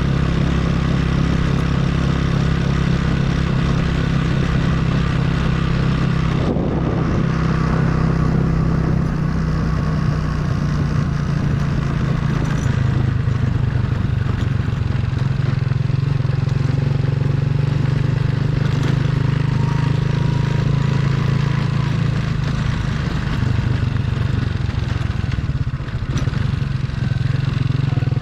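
Motorcycle engine running steadily while the bike is ridden, its note shifting slightly about twelve seconds in.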